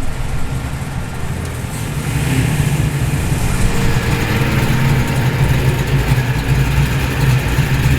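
Nissan R35 GT-R's twin-turbo V6 running at low revs as the car rolls in, a steady deep engine note that grows louder from about two seconds in as it comes closer.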